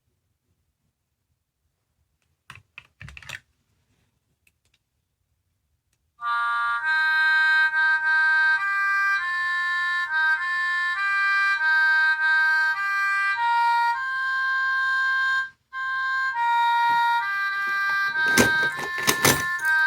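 Electronic sound toy from a capsule-toy machine: a few sharp clicks, then after a silence it plays a beeping electronic melody of steady note-by-note tones, with a short break partway and a burst of loud clicks near the end.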